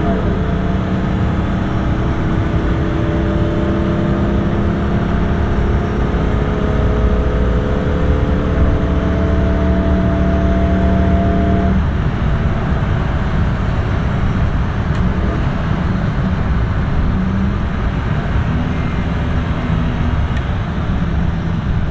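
Mercedes-Benz W116 280S straight-six, running on a Holley 390 CFM four-barrel carburettor, accelerating at highway speed as heard from inside the cabin, its note rising slowly in pitch. About halfway through the throttle is lifted and the engine note drops away abruptly, leaving steady road noise as the car coasts down.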